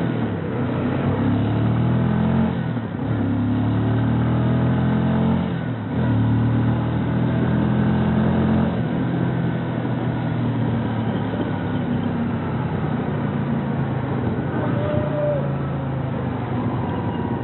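Bajaj NS125 FI single-cylinder four-stroke motorcycle engine accelerating under load, heard from the rider's seat. Its pitch climbs and drops back twice at gear changes, then settles into a steady cruise over wind and road noise.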